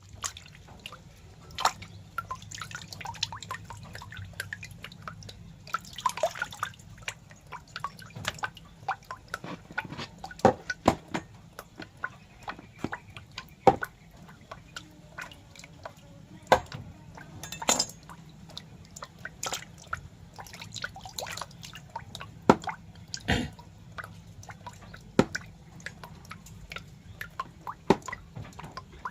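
Irregular wet clicks and drips, a few a second, some much louder than others, over a low steady hum.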